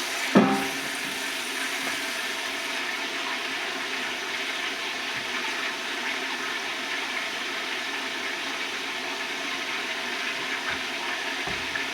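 Kitchen tap running steadily, filling a pitcher with cold water for Kool-Aid. A short, sharp sound about half a second in is the loudest moment.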